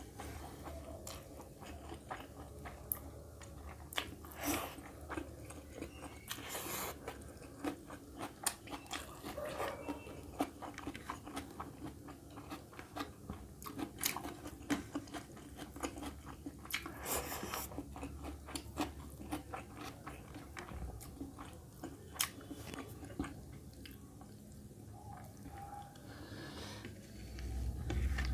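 Close-up chewing and biting of mutton curry with rice: wet mouth clicks throughout, with a few louder crunchy bites.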